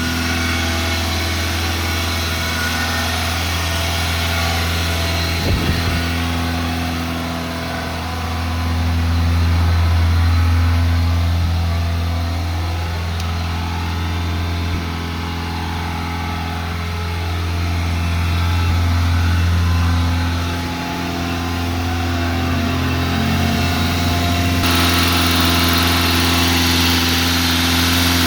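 1987 Honda Accord's four-cylinder engine running at a stuck-high fast idle, which the owner says won't kick down and stays around 2500-3000 rpm even when warm. The engine sound swells and settles twice, with a short click about five seconds in and a hissing rush joining near the end.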